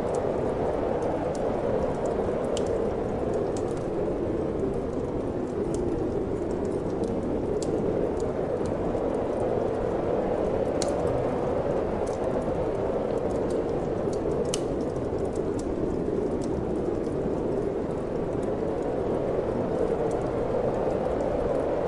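Steady wind noise with the sparse, sharp crackles and pops of a wood fire burning in a fireplace, two louder pops about halfway through.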